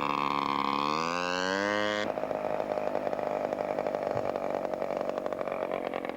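Radio-controlled model seaplane's engine buzzing in flight. Its pitch rises over the first two seconds, then the sound changes abruptly to a steady, lower-pitched buzz.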